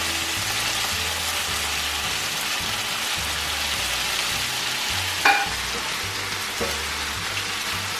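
Chicken and string beans frying in sauce in a pan, a steady sizzle throughout, with one short sharp sound about five seconds in.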